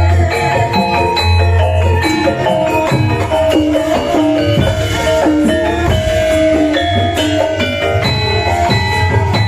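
Javanese gamelan music played loudly over a PA system: bronze metallophones ring out quick melodic notes over repeated deep low strokes.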